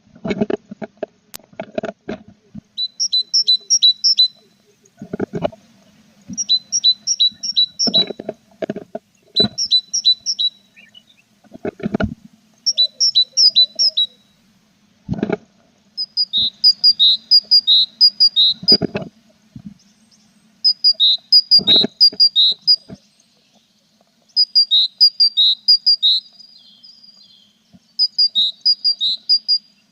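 Tit nestlings in a nest box giving bouts of rapid, high begging chirps, about ten bouts, several of them set off by loud dull knocks and thumps against the box.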